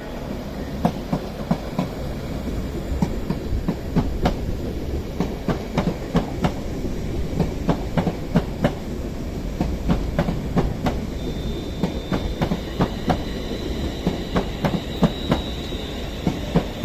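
London Northwestern Class 350 electric multiple unit pulling out of the station, its wheels clicking over the track again and again above a steady rumble. A thin, steady high whine joins about eleven seconds in.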